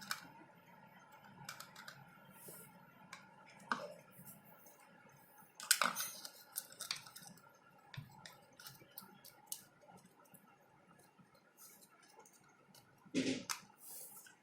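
Irregular light clicks and taps of small containers and utensils being handled, with louder knocks about six seconds in and again near the end.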